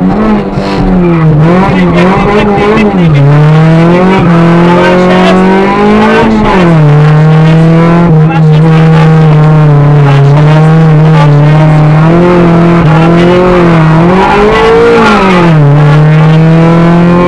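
Nissan Sunny GTi's 2.0-litre four-cylinder engine running hard at high revs, heard from inside the cabin. The engine note dips and climbs again several times, with pitch drops around three and six seconds in and again near the end, as the driver changes gear.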